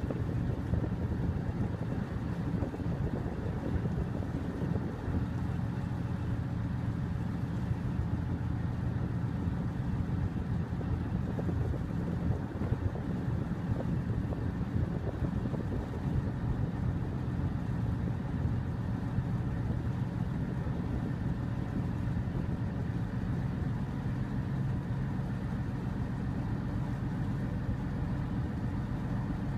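A river ferry's engine running steadily while under way: a low, even hum.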